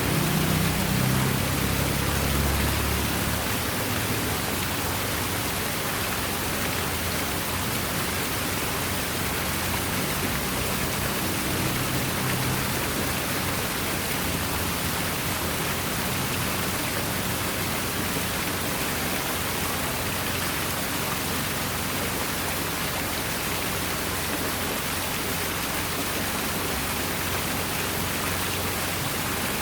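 Water falling steadily over an artificial rock waterfall, a continuous even splashing rush. Low tones fade out in the first few seconds.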